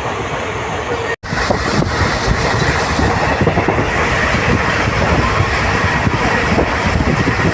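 Passenger train running on the track: a steady rumble and rattle with rail clatter. There is a split-second drop-out about a second in, after which the noise comes back slightly louder with a faint high whine.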